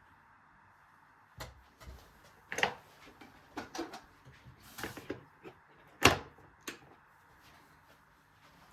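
A string of short knocks and clatters from household things being handled, like a cupboard or door shutting and objects set down, the sharpest knock about six seconds in.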